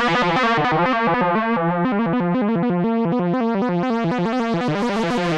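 K-ACCUMULATOR synthesizer oscillator module playing a fast melody of short, bright notes, with its audio-rate AM and sync being backed off. The tone grows duller around the middle and brightens again near the end.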